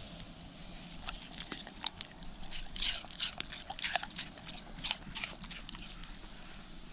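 A dog chewing and crunching on something hard: a run of irregular, sharp crunchy clicks.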